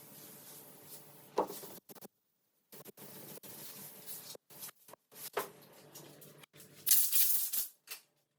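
Sandpaper rubbed by hand over body filler and primer on a car panel: uneven scratchy strokes with short gaps, the loudest and hissiest stretch about seven seconds in.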